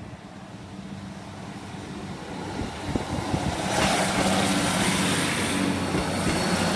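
Class 156 Sprinter diesel multiple unit approaching and running over the level crossing. Its diesel engine's steady hum grows louder as it comes closer. From about four seconds in, the rumble and rush of wheels on the rails join it as the train passes.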